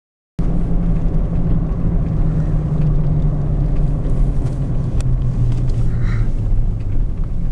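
A vehicle engine idling steadily, cutting in abruptly about half a second in.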